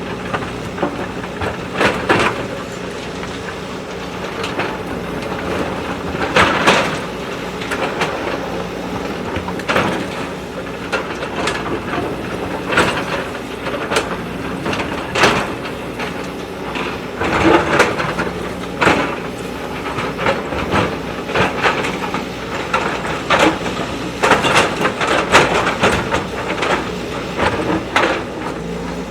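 JCB backhoe loader's diesel engine running steadily, with irregular clanks and knocks from the digging arm and bucket every second or two.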